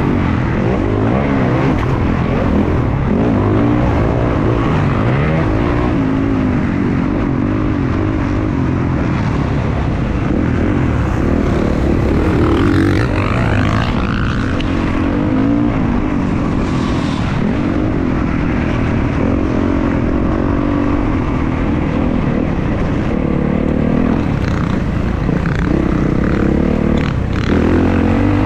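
Motocross dirt bike engine running hard, its pitch rising and falling as it revs up and down through the gears.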